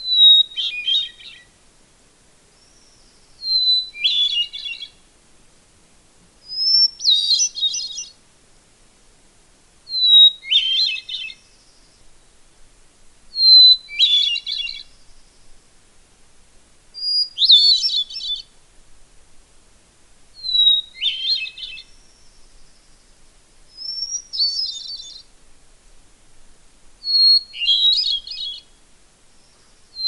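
Hermit thrush singing: nine separate phrases about three and a half seconds apart, each opening with one clear held whistle and going on into a quick fluty cascade of higher notes, the opening note pitched differently from phrase to phrase.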